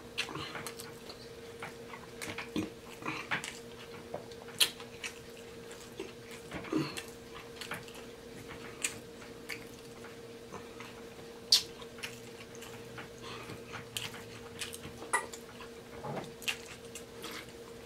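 Close-miked chewing of a mouthful of burger, with irregular wet lip smacks and mouth clicks.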